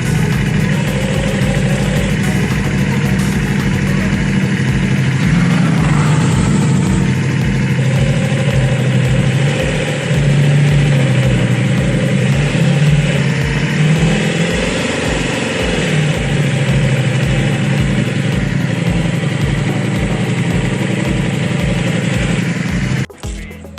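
Ducati Multistrada V4 Pikes Peak's V4 engine running steadily, with a brief rise and fall in engine pitch about two-thirds of the way through. The sound stops abruptly just before the end.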